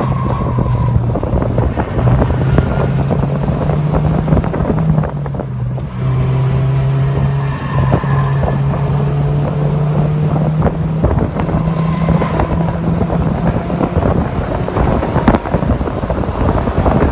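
Mazda MX-5 Miata (NC) four-cylinder engine running hard on a race track, with heavy wind buffeting on the microphone. The engine note holds steady and steps in pitch a few times, with a brief dip in level about six seconds in.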